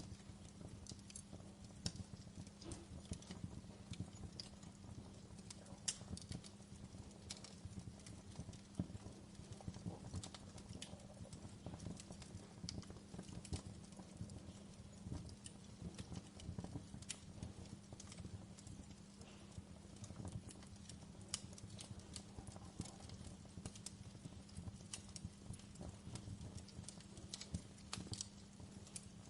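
Wood fire crackling in a fireplace: frequent irregular sharp pops and snaps over a faint, steady low rumble of the flames.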